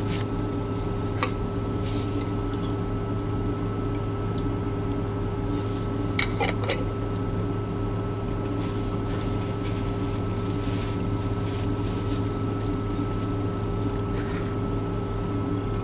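Steady low mechanical hum with a faint fixed whine inside a truck cab, with a few brief clicks and rustles of handling.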